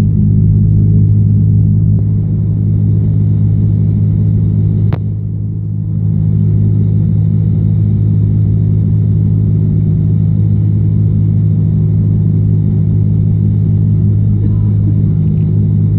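Cessna 172's piston engine and propeller droning steadily, heard inside the cockpit on final approach. A single sharp click comes about five seconds in, with a brief dip in the drone.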